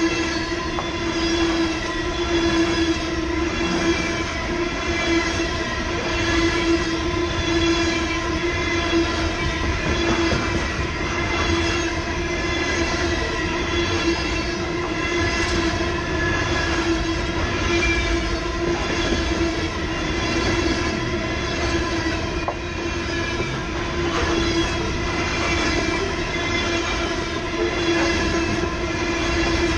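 Freight train of open-top coal hopper cars rolling past close by: a steady rumble and wheel clatter, a beat repeating about once a second, with a sustained ringing tone running underneath.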